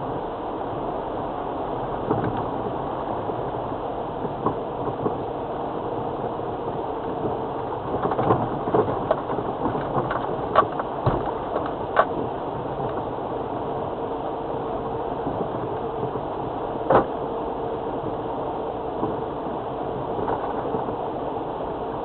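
Land Rover Freelander TD4 four-cylinder turbodiesel running at low speed on a rough, wet track, with a steady drone. A cluster of sharp knocks comes about halfway through, and one more a few seconds later.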